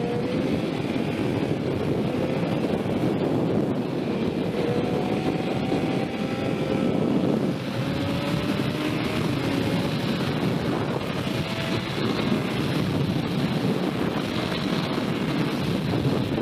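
Sport motorcycle being ridden at speed, heard onboard, with heavy wind rush over the microphone. Beneath it the engine note rises several times as the bike accelerates.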